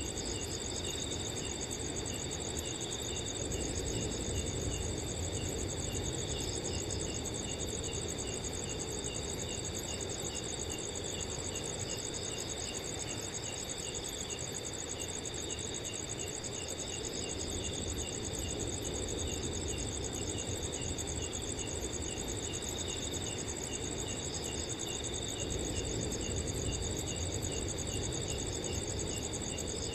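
A chorus of crickets at night: steady high trilling from several insects, with one cricket chirping in an even, regular rhythm over it. Underneath is a low, steady rush of wind.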